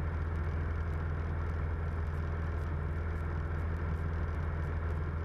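Single-engine light aircraft's four-cylinder Lycoming O-320 engine and propeller running at steady cruise-descent power in a Cessna 172M, an even low drone heard inside the cabin.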